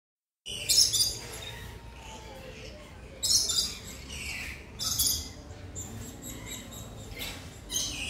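Small birds chirping and squawking in four short, loud, high-pitched bursts over a steady low background hum; the calls are not from the ostrich.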